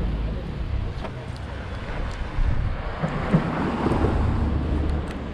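Road traffic rumbling, with a vehicle going past about three seconds in and wind on the microphone.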